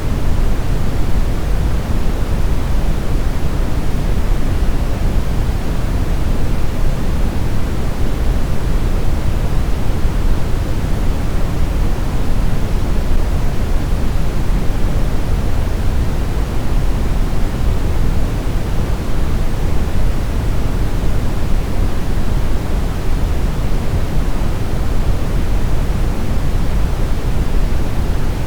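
Steady brown noise: an even, unchanging rumbling hiss, strongest in the deep lows and falling off toward the highs.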